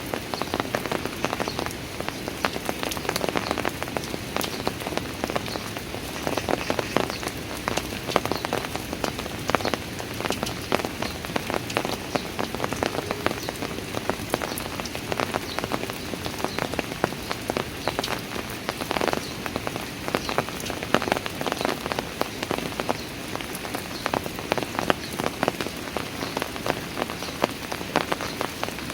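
Steady rain falling on outdoor stairs, a dense patter of many separate drops striking the steps.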